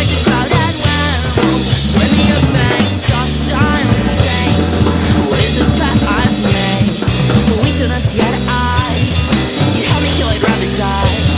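Drum kit played along to a recorded heavy rock song, with distorted guitars and bass running underneath and constant drum hits.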